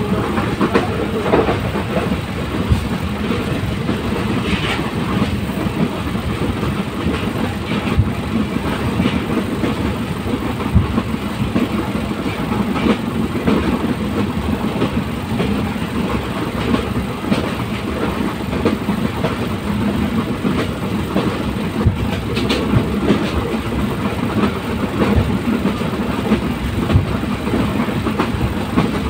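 A moving train running steadily, a continuous rumble with irregular clicks and knocks from the wheels on the track.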